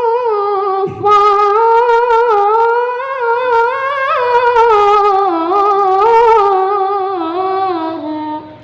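A young qari's voice reciting the Quran in melodic tilawah, drawing out the final word "anṣār" as one long, ornamented note with a short break about a second in. The pitch wavers and turns, rises mid-phrase, then steps down and stops near the end.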